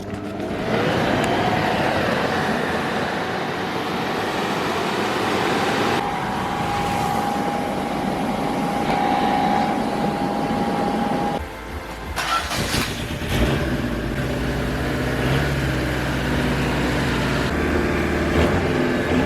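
A power grinder spins up with a rising whine, then runs steadily with a grinding hiss for about ten seconds, taking body filler off the car panels, and stops. After a short gap a lower, steady motor hum follows.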